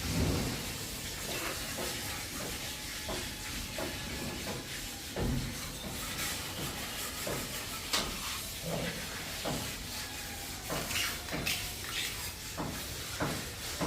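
Grout being worked across floor tiles: a run of short, irregular scraping strokes, busier in the second half, over a steady hiss.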